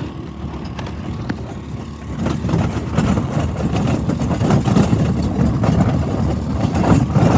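Four-wheeler running as it tows a wagon, a rough low rumble that gets louder about two seconds in.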